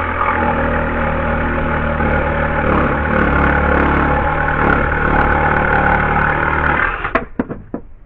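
Electric jigsaw running and cutting through a deck board, a steady motor buzz with the blade chattering. It stops about seven seconds in, followed by a few sharp knocks.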